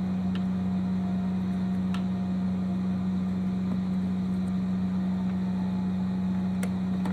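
Steady low mechanical hum at one pitch, with a few faint clicks of a screwdriver working a car door lock cylinder loose.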